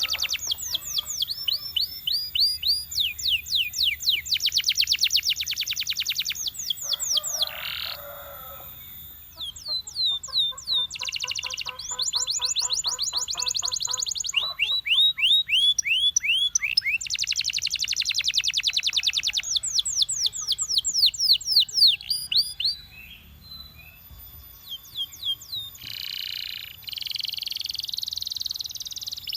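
Belgian canary singing: long trills of rapid repeated high notes, some as quick downward sweeps, in phrases with short pauses between them.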